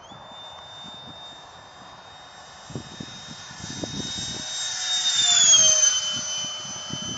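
ParkZone Habu electric ducted-fan foam jet whining in flight: the fan pitch jumps up right at the start as the throttle opens, then the whine grows louder and drops in pitch as the jet passes close by, about five seconds in. Wind buffets the microphone throughout.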